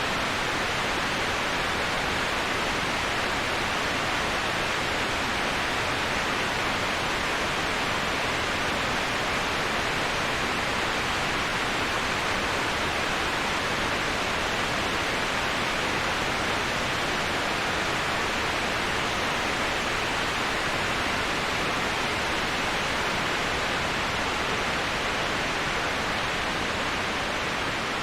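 Waterfall: a steady, unbroken rush of falling water, even like white noise.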